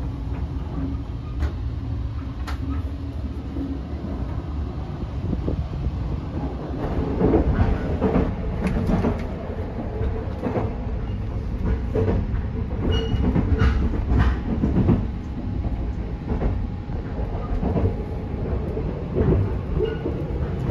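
Sunrise Izumo 285-series sleeper train running, heard from inside a sleeping compartment: a steady low rumble with irregular clicks and knocks from the wheels and car body, busier from about a third of the way in.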